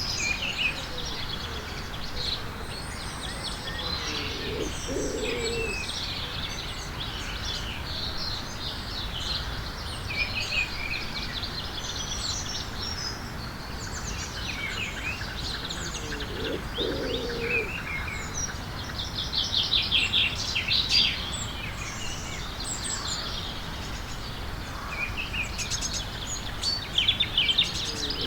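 Many small birds chirping and twittering continuously, with a lower call twice, at about 4 and 16 seconds in. Louder fast trills come a little after two-thirds of the way through and again near the end.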